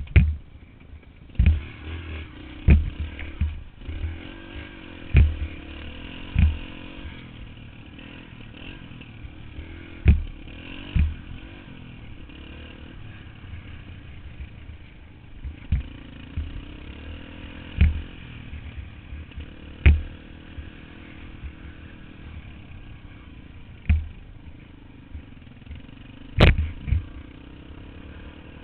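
Dirt bike engine running with its pitch rising and falling as it is ridden. Repeated loud sharp thumps break in at irregular intervals, the loudest near the end.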